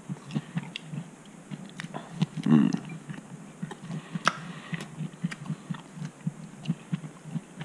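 A person chewing a mouthful of veggie burger sandwich on wheat bread close to the microphone: a string of short, irregular mouth clicks, with a brief hummed "mmm" about two and a half seconds in.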